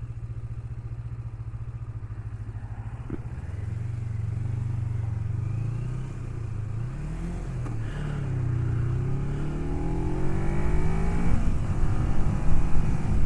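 Kawasaki Ninja 250R's parallel-twin engine idling steadily, then pulling away. Its pitch climbs, drops back at each gear change and climbs again, getting louder toward the end.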